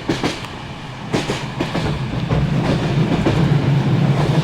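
Passenger train carriage in motion: wheels clicking over the rail joints, with a steady low rumble that grows louder about two seconds in.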